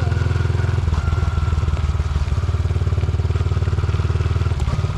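Dirt bike engine running steadily under way, with an even, fast exhaust beat.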